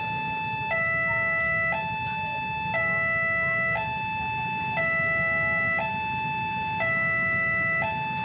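Electronic warning alarm at a railway level crossing, alternating a high tone and a low tone that switch about once a second, over a steady low rumble.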